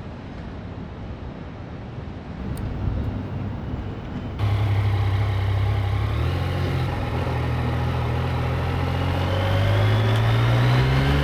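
Motorcycle ride noise: a low rumble of wind and road for the first four seconds. Then, with a sudden jump in level, a Yamaha XSR900's three-cylinder engine running steadily under way, its pitch climbing slowly near the end as it accelerates.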